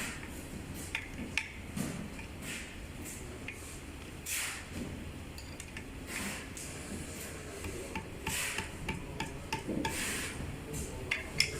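Hands and tools working on an electric scooter during a motor installation: short rubbing and scraping noises every second or two, with small sharp clicks of parts and tools, several in quick succession near the end.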